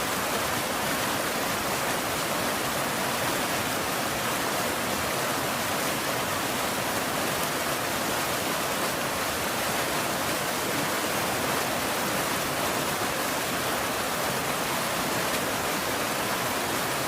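Steady rain falling, a dense even hiss without breaks or thunder.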